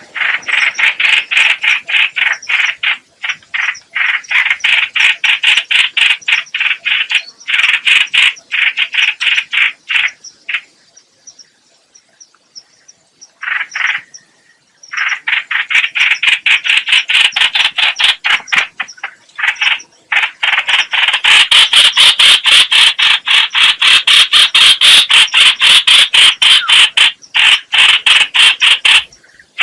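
Trao trảo (hoành hoạch) bird calling in long runs of rapid, harsh repeated notes, broken by short pauses and a quiet spell about a third of the way in, then louder and denser over the last third.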